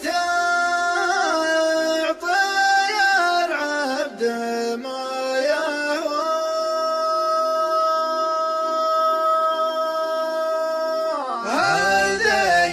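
A man singing an Arabic song with no instruments, winding his voice through ornamented runs, then holding one long note for about five seconds before dropping into a new phrase near the end.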